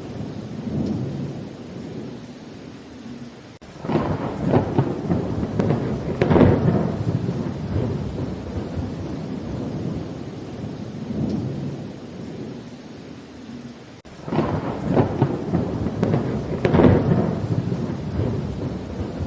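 Thunderstorm: steady rain with two rolls of thunder about ten seconds apart, each starting abruptly and rumbling for a few seconds before easing back into the rain.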